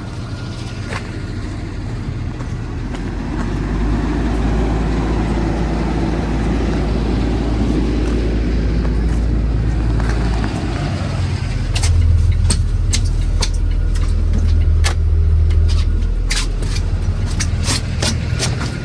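School bus engine running. It swells louder for several seconds in the middle, and a deeper, stronger drone sets in about twelve seconds in. Scattered sharp ticks run over it.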